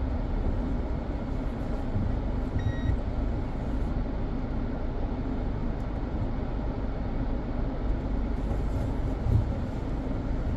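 Mazda 3 driving, a steady low rumble of road and engine noise. A short high beep sounds about three seconds in, and a low thump comes near the end.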